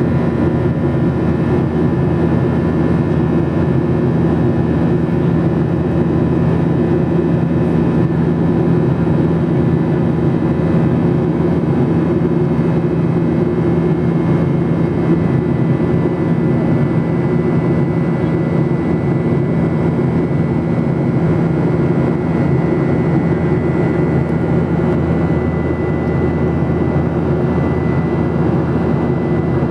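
Steady cabin drone inside a Boeing 737-800 in flight: jet engines and rushing airflow, even in level throughout, with faint steady whining tones above the low roar.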